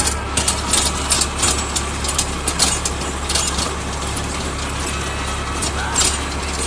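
Force Orchard mini tractor's diesel engine running steadily with a Dharanee rotavator at work: a constant low drone under irregular sharp clicking and clattering.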